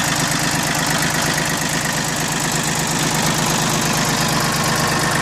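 Mitsubishi MT1601D compact tractor's three-cylinder diesel engine idling steadily and evenly. It runs smooth.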